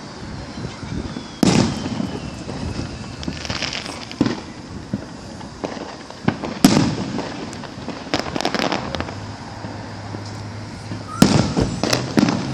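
Fireworks going off: sharp bangs about one and a half, four and seven seconds in, then a quick cluster of bangs near the end, with crackling between them.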